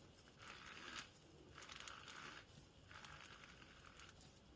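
Near silence with faint rustling, repeated about once a second.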